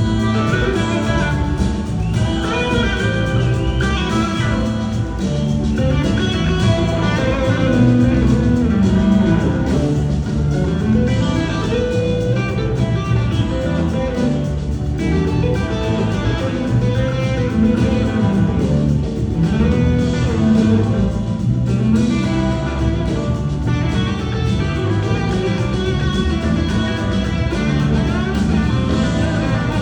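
Live band playing an instrumental blues-rock jam, with electric guitar lead lines to the fore over bass and drums.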